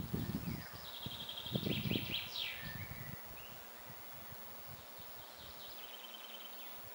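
A songbird singing: a fast high trill that drops into a few lower notes, then a second trill near the end. Low rumbles of wind on the microphone come under the first part of the song.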